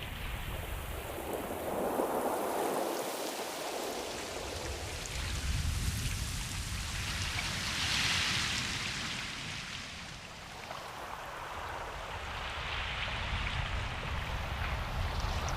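Ocean waves: a continuous rushing wash that swells and ebbs about every five or six seconds.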